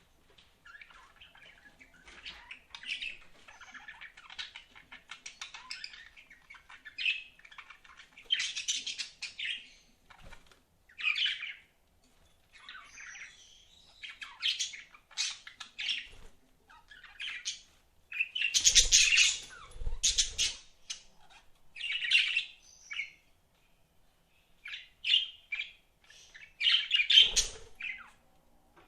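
Budgerigars chirping and chattering. It begins as a near-continuous warble, then breaks into separate bursts of chirps with short pauses between them. The loudest, harshest bursts come about two-thirds of the way through and again near the end.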